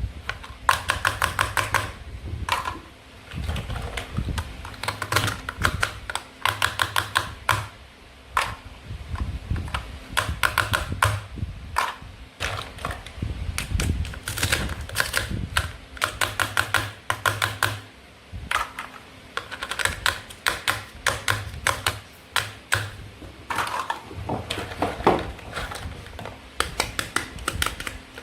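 Toy fruit and vegetables being cut with a toy knife: short runs of rapid, sharp clicking, each lasting about a second, repeating all through.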